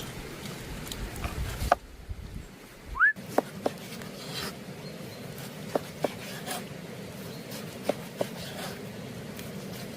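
An animal calling in short sharp notes, mostly in pairs repeated every two seconds or so, with one rising squeak about three seconds in, over a steady low background hiss.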